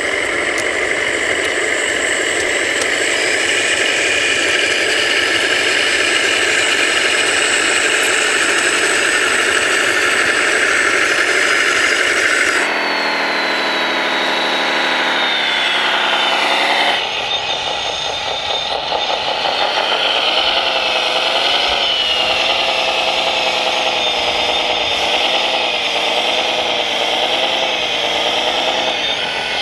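Radio-controlled hydraulic construction models running: electric motors and hydraulic pumps whining steadily, with engine-like droning. The sound changes abruptly about a third of the way in and again about halfway through. Near the middle a whine glides down in pitch, and in the second half the pitch wavers up and down.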